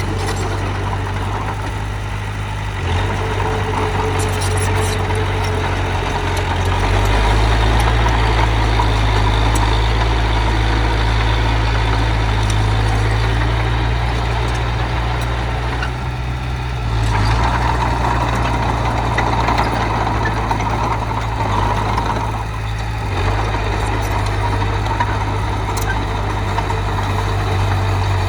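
Diesel engine of heavy earthmoving machinery running steadily, its low note stepping up and down several times as the load or throttle changes.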